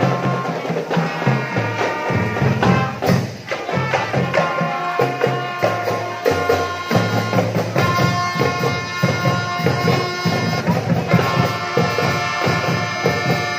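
Marching drum band playing: a steady beat of drums with a melody of sustained notes carried over it.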